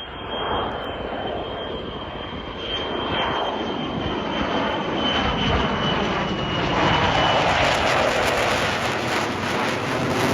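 Lockheed Martin F-35's single Pratt & Whitney F135 afterburning turbofan in flight, a loud jet noise that swells as it comes nearer. A thin high whine sits over it and fades out about seven seconds in.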